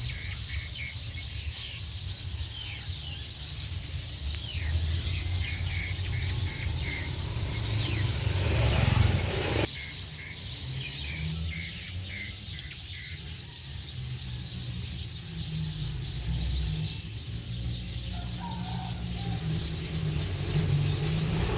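Small birds chirping in short repeated notes over a steady high hiss and a low rumble; the background changes abruptly about ten seconds in.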